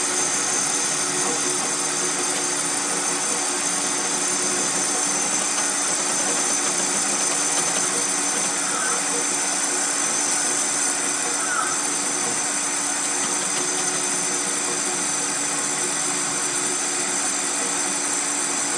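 A workshop machine running steadily: a constant motor hum with a high whine over a hiss, unchanging throughout.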